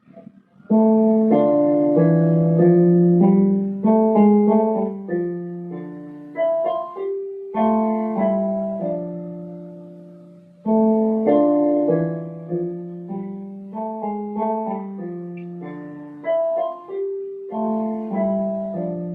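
Solo piano playing a simple piece of chords and melody. Each phrase opens with a firmly struck chord and then fades slowly.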